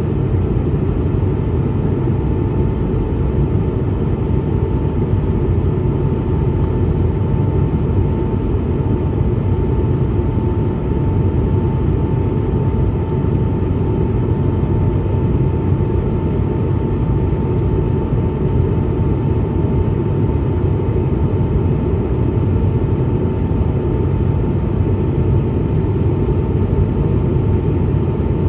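Cabin noise of an Airbus A220-300 climbing: a steady low roar from its Pratt & Whitney PW1500G geared turbofans and the airflow over the fuselage, with a thin steady whine above it.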